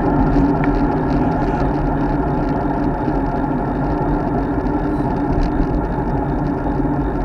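Steady rushing wind and road noise on an action camera's microphone while riding a road bike.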